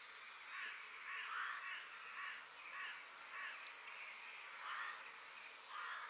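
Forest bird ambience: a run of harsh, rasping bird calls repeating about every half second, with fainter high chirps from other birds over a steady background hiss.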